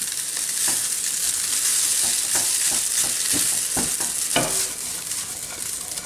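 Prawn fried rice sizzling in a hot nonstick wok as it is stirred and tossed with a silicone spatula. A steady high hiss runs throughout, with scattered scrapes and taps of the spatula against the pan.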